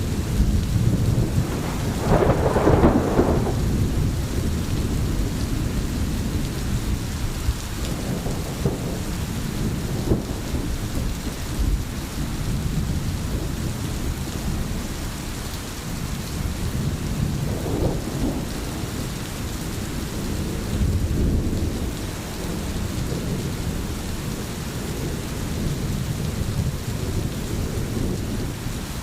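Rain falling steadily, with deep rumbles swelling up a few times, the strongest about two seconds in.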